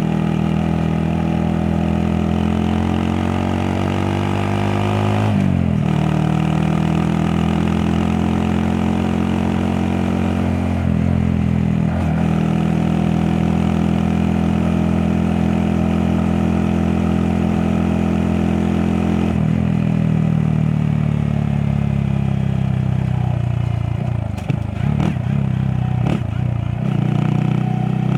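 Honda Monkey 125's single-cylinder four-stroke engine under way, working up through the gears: its pitch climbs, drops at a gear change about five seconds in, climbs again to another change near twelve seconds, holds steady, then falls as the bike slows in the last third. A few brief knocks and dips in the engine sound come near the end.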